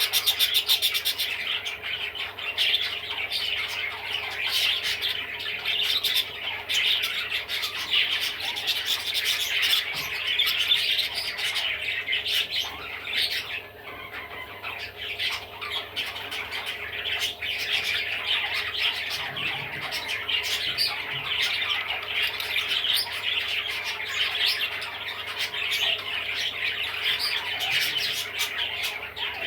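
Budgerigar chattering and warbling without pause: a dense run of short, high chirps and clicks.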